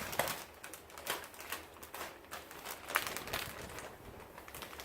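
Irregular crinkling and crackling of a plastic bag of peat being handled and emptied.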